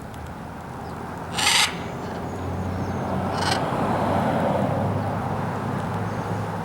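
A caged exotic bird gives two short, harsh squawks, the first about a second and a half in and the louder, the second about two seconds later, over a steady low hum and background noise.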